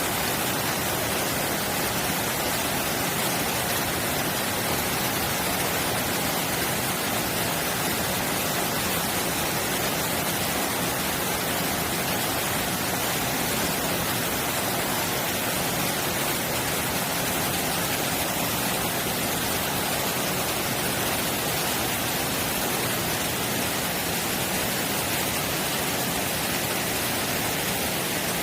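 Mountain valley stream running full after rain: a steady, unbroken rush of water.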